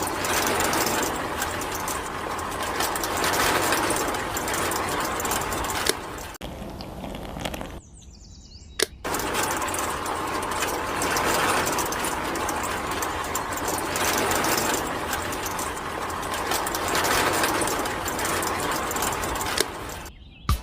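A small electric motor running steadily with a dense mechanical whirr. It winds down about six seconds in, stops for about a second, and starts again with a sharp click.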